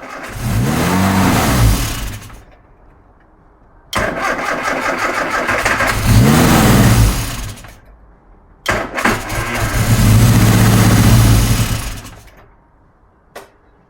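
Rebuilt Morris Cooper S A-series four-cylinder engine started three times in a row: each time it cranks, catches and runs up in speed, then falls away and stops after two to four seconds.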